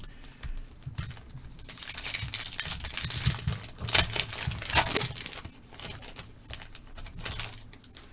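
A pack of trading cards being torn open and its plastic wrapper crinkled and crumpled by hand. The crinkling is irregular and is loudest about four to five seconds in.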